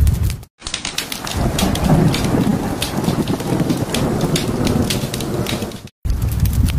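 Rainstorm with rumbling thunder and pattering drops, spliced between stretches of crackling fireplace. The fire sound cuts off about half a second in, the rain runs for about five seconds, and it cuts off abruptly before the crackling fire returns near the end.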